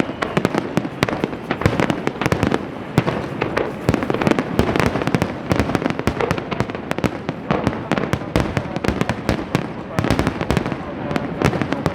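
Fireworks going off in a dense barrage: many sharp bangs and crackles in quick succession, with no pause between them.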